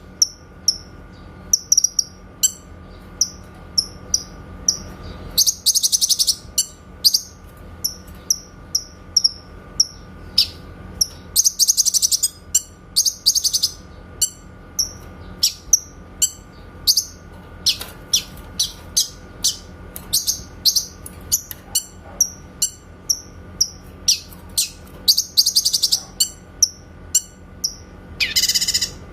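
Cucak kinoy singing: a fast run of short, sharp, high-pitched notes, several a second, broken by a few longer trilled phrases. These are the clear 'tembakan' (shooting) notes prized in bird-song training recordings.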